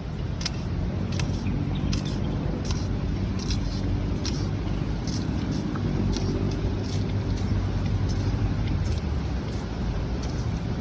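An engine or motor running steadily with a low hum, with light sharp clicks recurring throughout.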